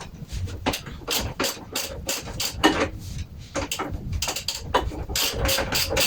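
Socket ratchet wrench clicking in repeated short strokes, a few clicks a second, coming quicker towards the end, as nuts on a Kawasaki ZZR1200's exhaust are worked off.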